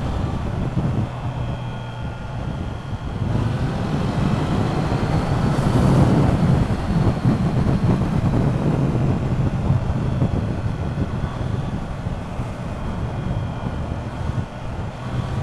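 Triumph Trident 660's three-cylinder engine accelerating hard in fourth gear, rising in pitch and getting louder from about three seconds in, then running on at speed. Wind rushes over the microphone.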